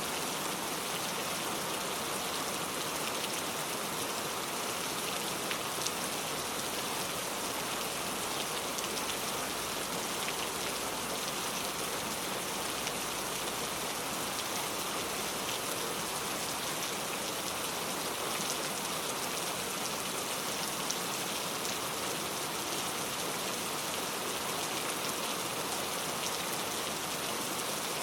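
Heavy rain falling steadily on a leaf-covered road, a dense even hiss of many drops with scattered individual drop taps.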